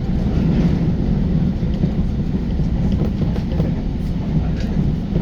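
Steady low rumble of a JR Central electric commuter train running at speed, heard from inside the passenger car.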